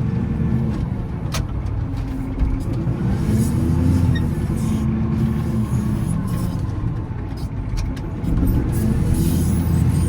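Volvo L70C wheel loader's diesel engine running steadily as it plows snow, its pitch rising and falling with the throttle, with one sharp click about a second and a half in.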